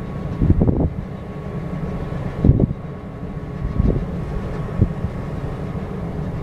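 Steady low engine drone from a bulk cargo ship berthing at the quay, with a faint steady whine and a few irregular low thumps or surges.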